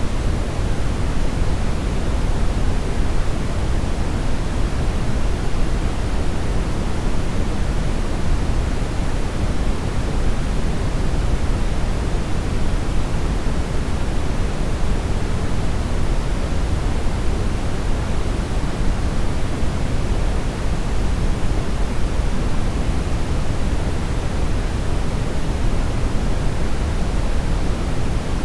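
Steady brown noise: an even, unchanging rumbling hiss, strongest in the bass and falling away toward the treble.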